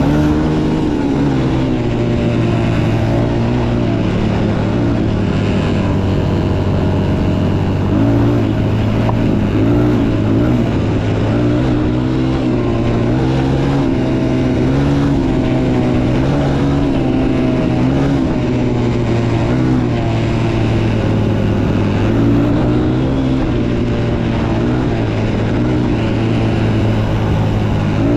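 Motocross dirt bike engine running continuously, its pitch rising and falling as the throttle is worked.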